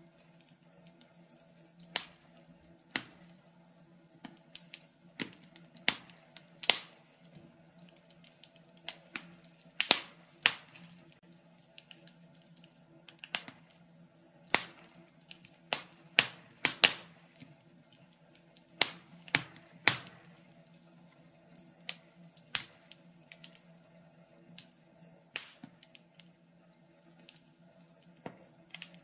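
Wood fire burning in a fireplace, crackling and popping in sharp, irregular snaps, about one or two a second, over a faint steady hum.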